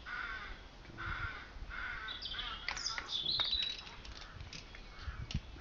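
A bird calling repeatedly outdoors, several harsh calls about a second apart with some thinner higher calls in the middle, over light clicks of a wire connector and metal being handled.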